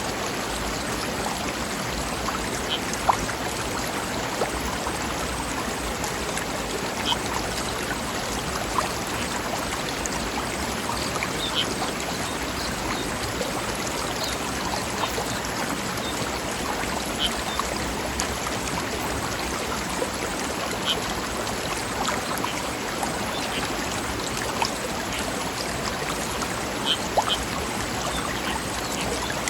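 Mountain stream flowing over rocks: a steady rush of water with many small splashes and plinks scattered through it.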